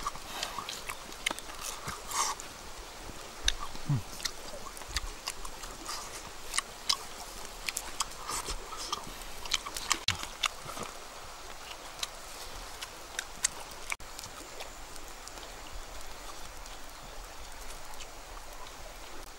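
Close-up eating sounds of grilled fish picked apart by hand and chewed: irregular wet clicks and lip smacks, frequent in the first half and thinning out later.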